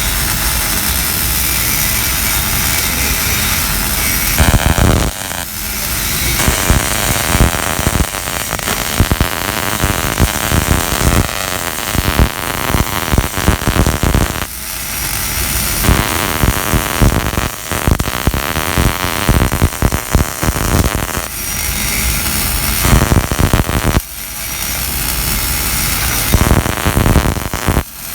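Electric arc welding running a vertical-down bead: a loud, steady crackling hiss from the arc, dense with pops, with a few short breaks along the way.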